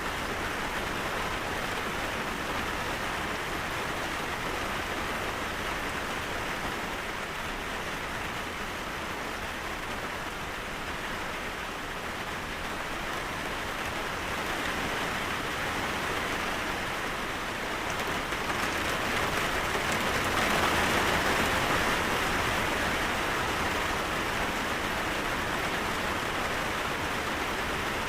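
Steady rain falling, an even hiss that swells somewhat louder past the middle.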